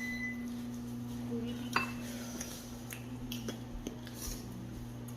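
A few light clinks of cutlery against dishes, the sharpest a little under two seconds in, over the steady low hum of a running microwave oven.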